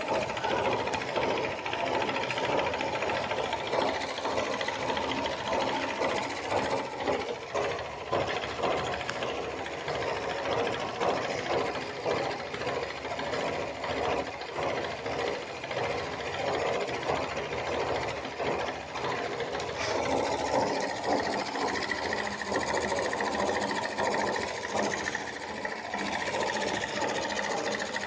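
Homemade model steam engine running steadily at speed, a fast even mechanical beat with no pauses; a thin steady whine joins about two-thirds of the way through.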